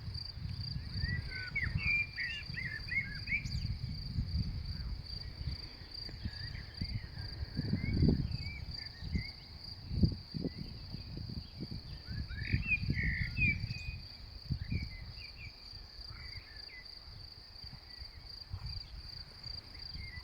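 Grasshoppers chirping in a steady, high, pulsing chorus, with birds twittering twice. A low rumbling noise runs underneath, with two louder thumps about eight and ten seconds in.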